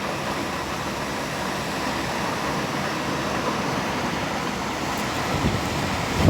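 Strong gusty wind blowing steadily, with low buffeting thumps on the microphone near the end, the loudest just as it closes.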